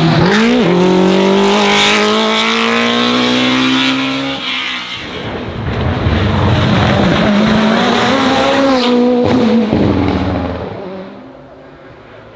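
Hillclimb race car's engine run hard, its pitch dipping and climbing through gear changes as it accelerates past, then fading away near the end.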